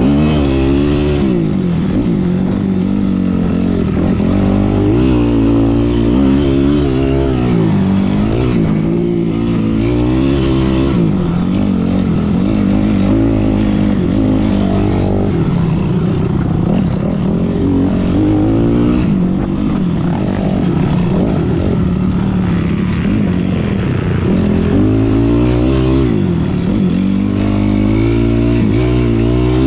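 Kawasaki KX65 two-stroke dirt bike engine revving hard. Its pitch climbs and drops over and over as the rider accelerates, shifts and backs off around the track.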